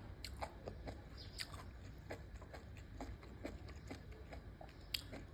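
Close-miked chewing of enoki mushrooms: irregular soft, wet mouth clicks and smacks, with one sharper click near the end.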